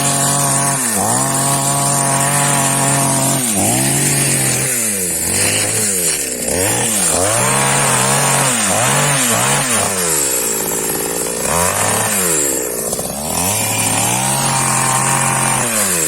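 Two-stroke chainsaw cutting dry dead wood. The engine speed repeatedly drops under load and revs back up, sagging longest about two-thirds of the way in.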